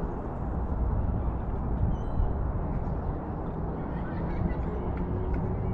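Wind rumbling on the microphone in an open outdoor soundscape, with a faint short high chirp about two seconds in.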